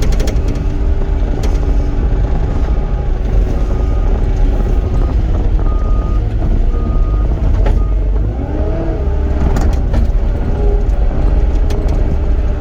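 Cat 259D compact track loader running while grading, its diesel engine a steady, loud rumble with scattered clicks and knocks. A short, high backup-alarm beep sounds on and off for the first two-thirds, and about eight seconds in the engine pitch swings up and back down.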